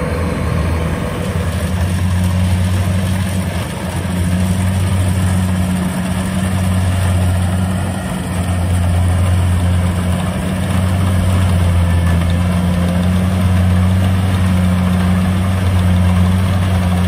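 Tracked rice combine harvester's engine running steadily with a low hum, dipping slightly in loudness a few times.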